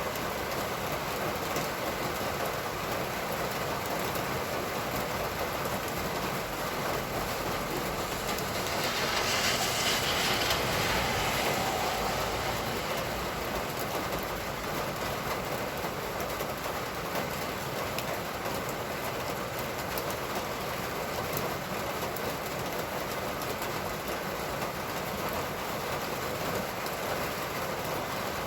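Steady rain falling. About nine seconds in, a vehicle passes on the wet road, and its tyre hiss swells for about three seconds and fades.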